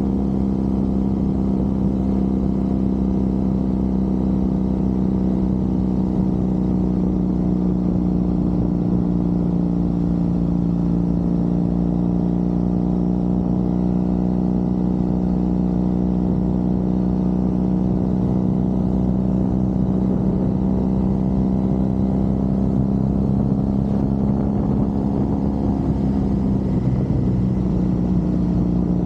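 Triumph Bonneville's parallel-twin engine running steadily while riding, its pitch dipping slightly in the middle and shifting a little near the end.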